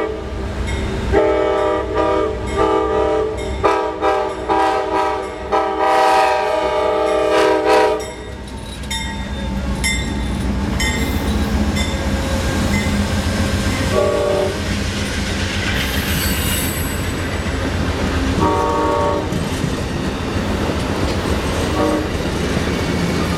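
Amtrak P42 locomotive's air horn playing a quick series of short toots that ends in a longer blast, then two more short toots later on. The train passes close by throughout with a steady rumble and wheel clatter on the rails.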